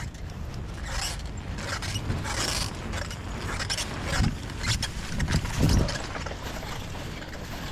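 Bicycle riding over a rough trail: steady tyre rumble with rattling and scraping, and a few harder jolts about four and five and a half seconds in.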